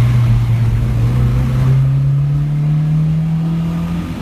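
1971 MG BGT's 1.8-litre B-series four-cylinder engine pulling under acceleration, its note rising steadily, with the revs dropping away at the very end.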